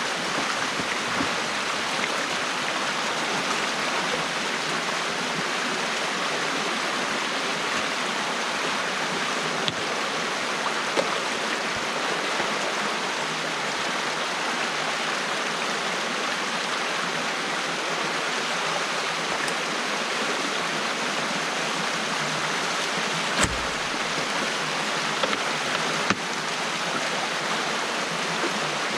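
Steady rush of stream water pouring through a breach in a beaver dam, with a few brief knocks along the way, the heaviest a low thump about two-thirds of the way through.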